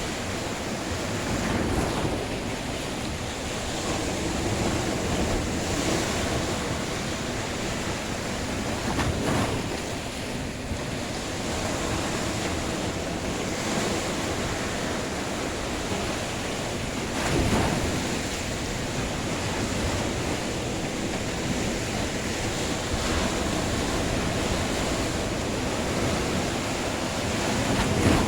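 Sea waves washing onto the shore, a steady rushing surf that swells louder a few times as waves break, with wind noise on the microphone.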